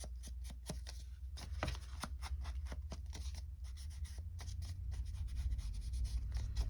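Paper being handled and worked by hand on a craft desk: a run of short, irregular scratches and rustles, over a steady low hum.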